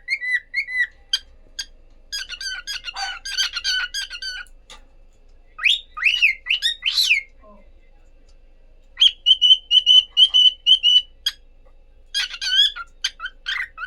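Cockatiels chirping and whistling: bursts of rapid chirps, then a few rising, swooping whistles in the middle, and later a run of about eight evenly repeated short whistled notes, followed by more chirping.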